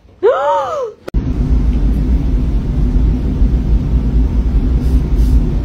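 A cat meows once, its pitch rising and then falling. After a click about a second in, a loud, steady low rumble takes over.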